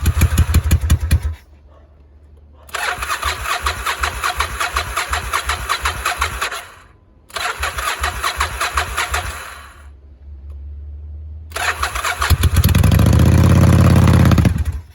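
Electric starter cranking the 1999 Yamaha Virago XV1100S's air-cooled V-twin on choke for a cold start, in repeated bursts of a few seconds with short pauses between. Near the end the engine fires and runs briefly with a rising and falling note, then cuts off suddenly.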